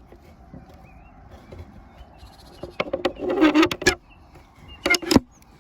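Wooden nest box front being shut and fastened: a run of sharp clicks with a brief scraping rub about three seconds in, then a couple more knocks near the end. Faint bird chirps behind.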